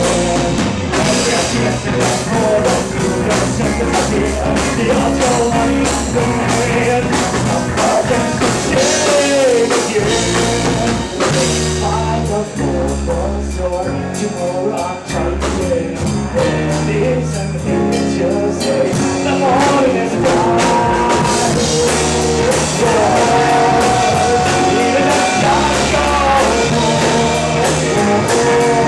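Rock band playing live: drum kit, bass and electric guitars, with a voice singing.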